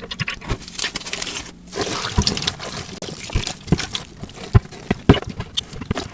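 Dyed gym chalk being crushed and crumbled: a dense, irregular run of small crunches and crackles.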